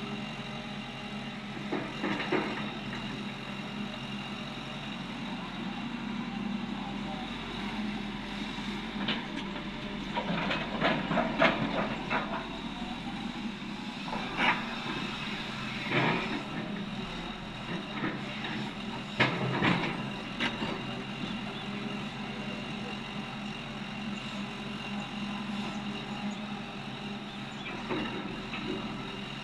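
Cat 330D excavator's diesel engine running steadily, with clanks and knocks coming several times, thickest around the middle: the sound of loading quarry waste into tipper trucks.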